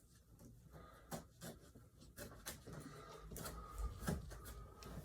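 Faint handling noises: scattered light clicks and rubbing of small objects being moved about.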